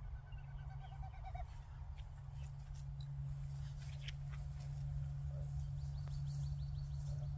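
Small birds chirping and trilling in short runs of quick repeated notes, over a steady low hum.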